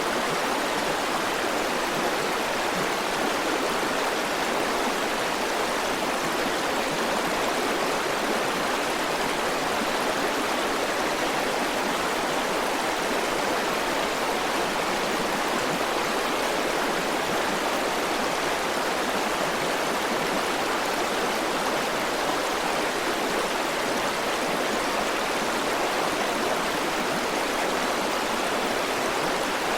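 River water flowing and rushing over stones, a steady, unbroken rush.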